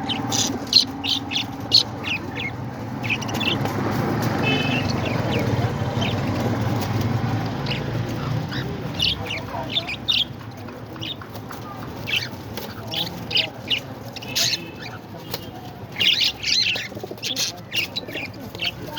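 Parrots chirping: many short, high calls in irregular clusters, with a low background rumble that fades about halfway through.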